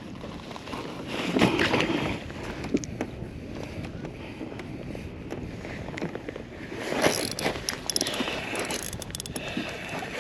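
Wind on the microphone and water moving around a kayak, a steady rushing noise with two louder surges, about a second and a half in and again about seven seconds in.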